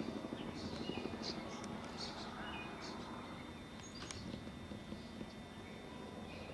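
Small birds chirping in short, scattered calls, with a single sharp click about four seconds in, over a low rumble.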